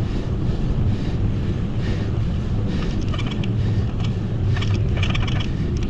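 Wind rumbling over the microphone of a moving bicycle, steady and loud, with short hiss-like bursts now and then.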